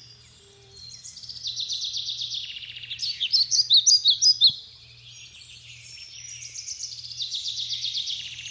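Several backyard songbirds singing: fast trills begin about a second in, the loudest bright chirps come a little after the middle, then quieter trilling follows.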